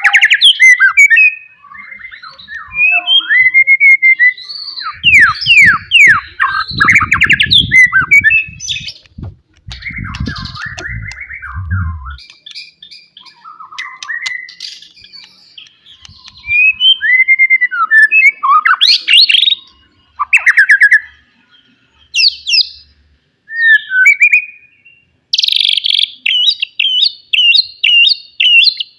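White-rumped shama singing a loud, varied song of whistled phrases, sweeping notes and rattling trills with short pauses between, ending in a fast run of repeated notes.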